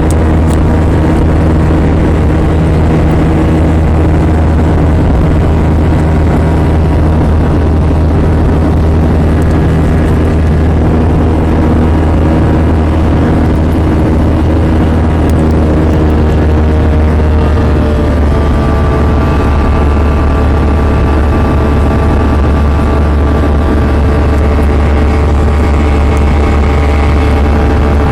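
Cabin noise inside an Airbus A320: a loud, steady drone from its jet engines with a deep hum underneath. About two-thirds of the way in, new higher engine tones come in and rise slightly.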